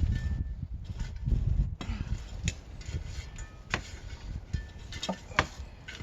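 Rocks being handled and set in place, clinking and knocking against one another, with a few heavier low thumps early on.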